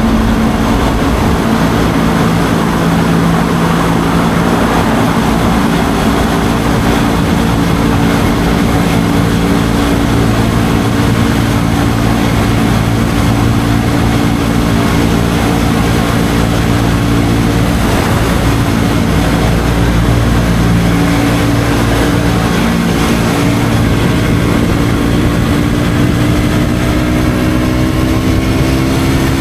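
KTM Duke 125's single-cylinder four-stroke engine running through an Akrapovic exhaust while ridden. It holds a steady drone with a few shifts in pitch, then rises in pitch near the end as it accelerates.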